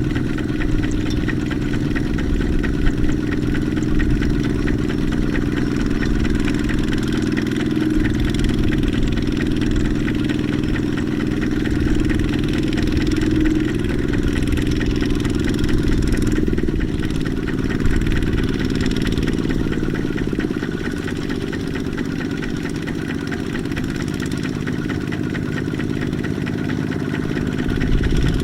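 Kubota mini tractor engine running steadily under load. Its note eases a little about two-thirds of the way through.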